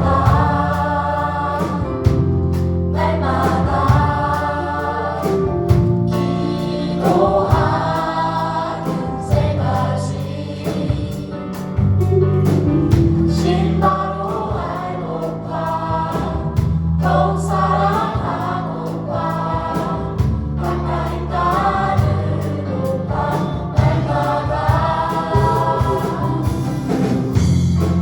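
Choir singing a gospel praise song with live band accompaniment: sustained bass notes under the voices and a steady drum beat.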